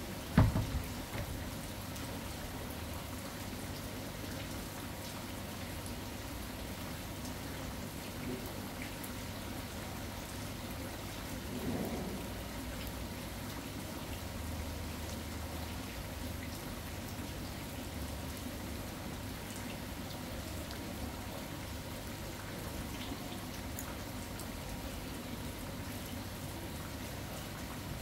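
Steady rain falling, an even hiss of drops throughout. A loud knock right at the start, and a brief low rumble about twelve seconds in.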